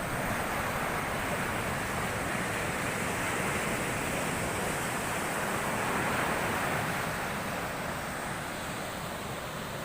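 Heavy storm surf: big waves breaking and washing up the shore in a continuous rushing noise that swells a little louder about six seconds in.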